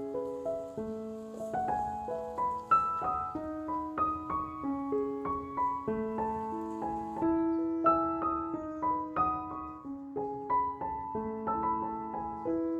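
Background music: a slow, gentle piano melody of single held notes stepping up and down.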